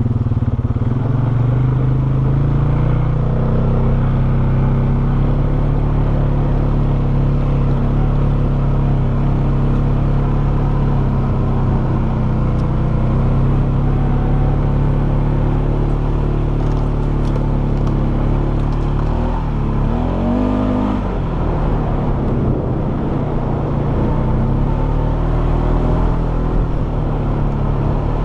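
Polaris Sportsman 570 ATV's single-cylinder engine running steadily as it is ridden, with a brief rise and fall in revs about twenty seconds in.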